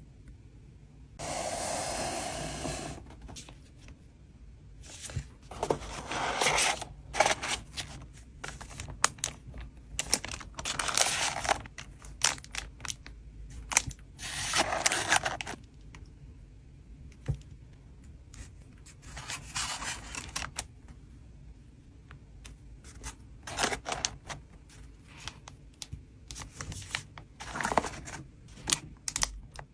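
Trading cards being packed by hand: plastic sleeves and wrapping rustling, scraping and tearing in short bursts of a second or two, with many small taps and clicks in between, over a low steady rumble of wind noise.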